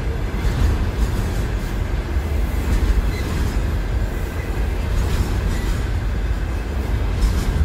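A long freight train of container flatcars rolling past at speed: a steady rumble of wheels on rail.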